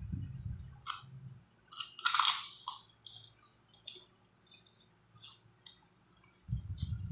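Close-miked chewing and wet mouth sounds of someone eating rice with a sauced meatball, in mukbang style. Low, muffled chewing fades after the first second or so. Scattered crackly smacks and clicks follow, the loudest about two seconds in. The low chewing comes back near the end.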